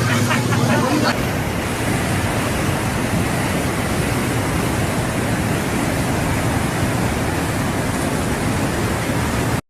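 Floodwater rushing: a loud, steady rushing noise with no break, with a few words spoken over its first second.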